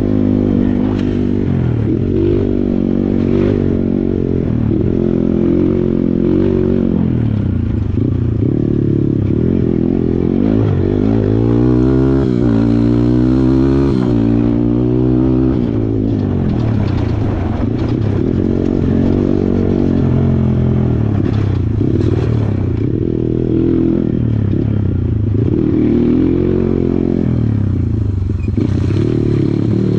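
Kawasaki KLX140 dirt bike's single-cylinder four-stroke engine running under load, its revs rising and falling again and again, with scattered knocks and rattles.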